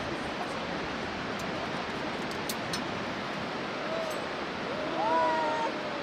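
Steady rush of a fast mountain river, the Bhote Koshi, far below in its gorge. A short distant voice call rises and holds about four to five seconds in.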